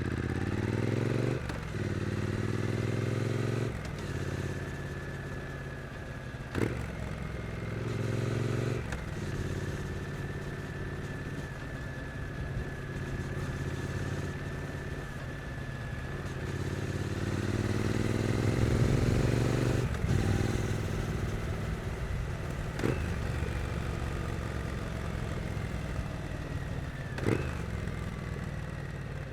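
Triumph Street Twin 900's parallel-twin engine pulling through the gears, its pitch rising and then dropping at each upshift, with stretches of steady running in between. A few sharp clicks sound over it.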